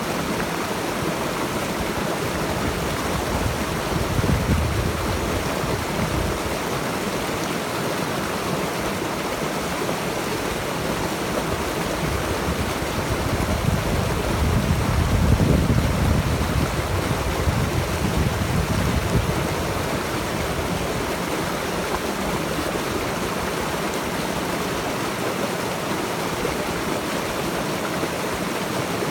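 A stream flowing steadily, a continuous rushing of water that swells deeper and louder briefly about four seconds in and again for several seconds around the middle.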